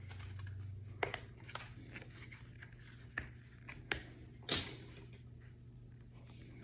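Thin plastic armor parts being bent and handled: scattered sharp clicks and crackles, the loudest about four and a half seconds in.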